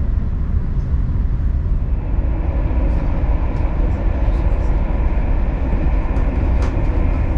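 Steady low rumble of an SNCB M6 double-decker coach running at speed, heard from inside the passenger saloon, with a few faint clicks over it.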